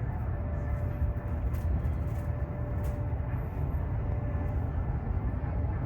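Steady low rumble of an airliner cabin, the Boeing 737-900ER's air and ventilation noise, with a faint steady hum and a few light clicks.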